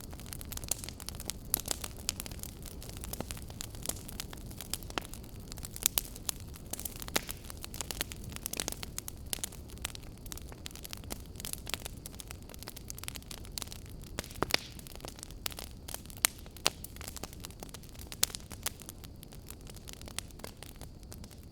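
Fire crackling: irregular sharp pops and snaps, several a second, over a low steady rumble of burning.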